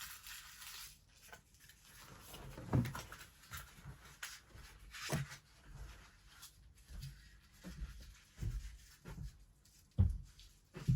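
Irregular knocks and thumps with short bursts of rustling: plastic toy packaging and a small accessory being handled. The loudest thumps come about three seconds in and near the end.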